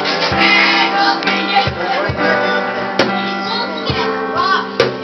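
Live acoustic music: a cajón knocking out low thumps under held chords and singing voices.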